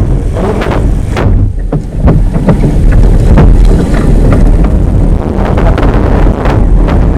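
Wind buffeting the microphone: a loud, continuous low rumble with many short knocks and crackles running through it.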